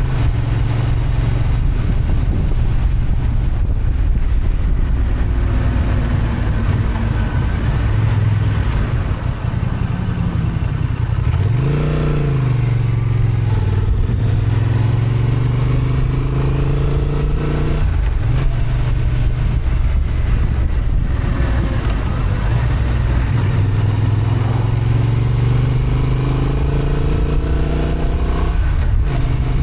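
Honda XL750 Transalp's parallel-twin engine running under load on a climb, its revs rising and falling several times with throttle changes and gear shifts. Wind and road noise run underneath.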